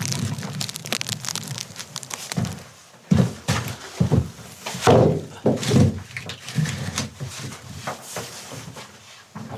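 Dense crackling for the first two seconds or so, then a run of irregular knocks and thumps of handling.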